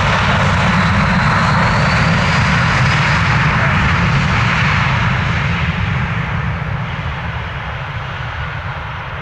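Fixed-wing aircraft engines running close by, a loud steady rush of noise that fades over the last few seconds as the aircraft moves away.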